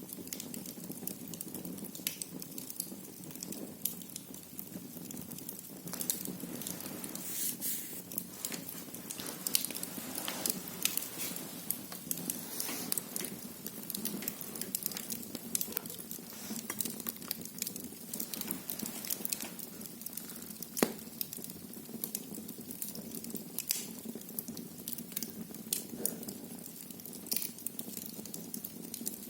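Wood fire crackling in a fireplace: irregular snaps and pops over the steady low rush of the flames, with a louder pop about twenty-one seconds in.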